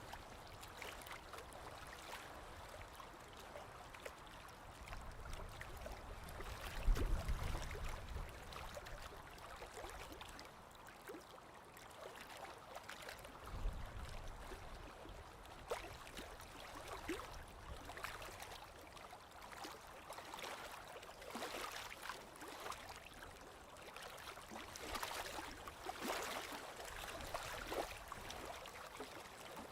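Small waves lapping gently at a lakeshore: soft splashes and trickles, with a low thud about seven seconds in and another about halfway through.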